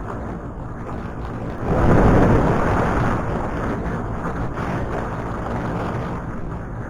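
Motorcycle riding along a road: the engine runs steadily under constant wind noise on the action-camera microphone. About two seconds in a louder rush of noise swells and then fades over the next second or so.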